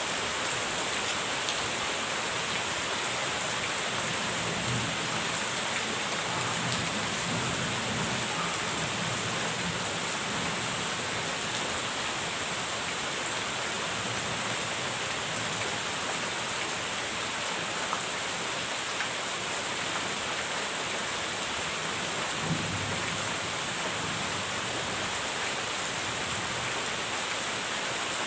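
Steady heavy rain, with low rolls of distant thunder rumbling twice, the first lasting several seconds.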